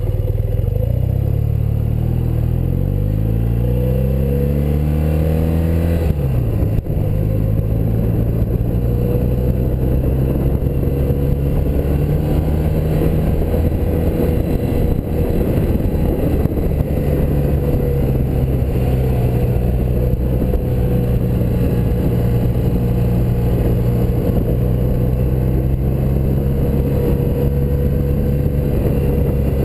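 1984 BMW R100RS's air-cooled flat-twin boxer engine under way: its pitch climbs for about six seconds, drops sharply, then holds fairly steady as the bike runs on.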